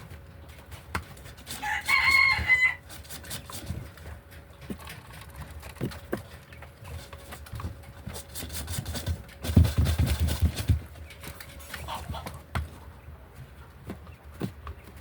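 Chickens: one loud, drawn-out call about two seconds in, then scattered small clicks and a low rumble about ten seconds in.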